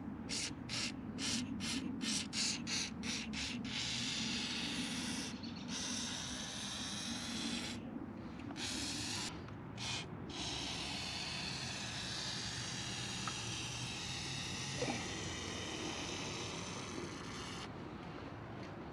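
Aerosol can of multi-purpose penetrating lubricant spraying through its straw onto a motorcycle chain. First about ten short, quick spurts, then longer hisses with a few brief breaks, stopping near the end.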